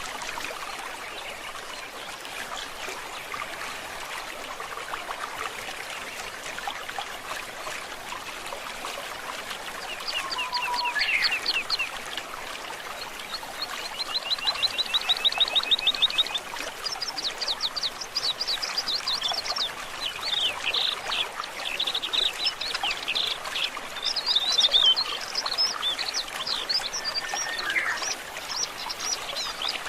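Steady rush of a flowing stream, with songbirds singing over it from about a third of the way in: fast trills of rapidly repeated high notes, with more song overlapping in the second half.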